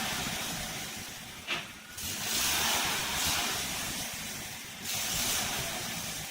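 Off-road vehicle reversing in a mud pit, engine running under load, with a hissing rush of noise coming in three surges. The vehicle is stuck, bellied on its front axle.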